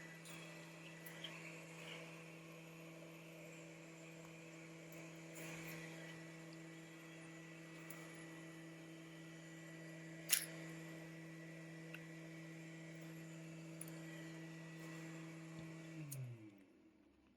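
A small electric motor hums steadily, then winds down with falling pitch near the end; one sharp click about ten seconds in.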